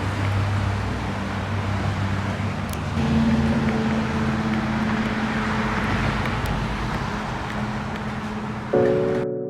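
Road traffic noise: a steady rumble with a low motor hum that steps up in pitch about three seconds in. Music with a piano-like sound comes in near the end.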